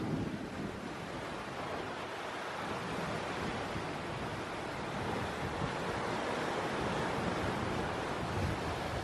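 Steady rush of wind and sea waves around a sailing catamaran under way, with wind buffeting the microphone.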